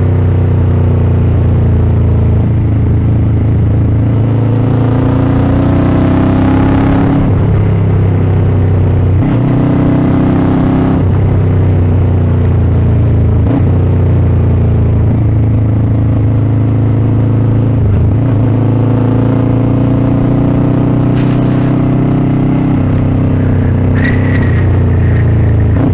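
Motorcycle engine running while riding: its pitch climbs as it accelerates and drops back at gear changes, several times over, above a steady low drone.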